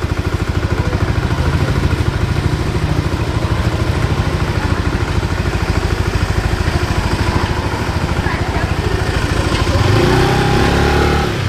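A small engine running with a fast, even low pulse, growing louder about ten seconds in.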